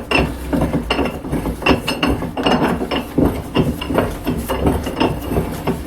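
Steel bench vise being wound open by its handle: irregular metallic clicks and clinks, a few a second.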